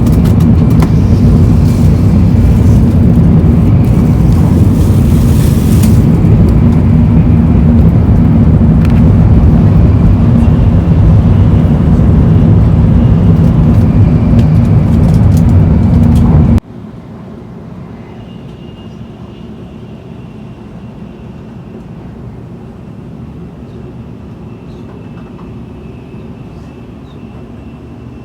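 Tokaido Shinkansen train running at speed: a loud, deep, steady running noise that cuts off abruptly about two-thirds of the way through. It gives way to a much quieter steady running noise with a faint high tone.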